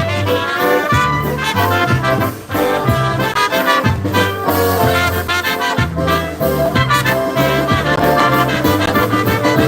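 Live Polish-American polka band playing, with brass carrying the melody over a bass line that moves on a steady beat.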